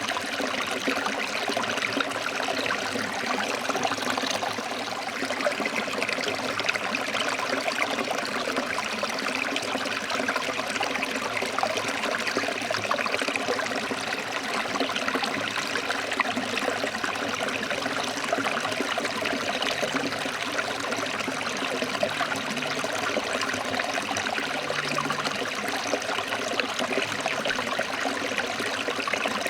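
Forest stream flowing over rocks: a steady rush and trickle of water.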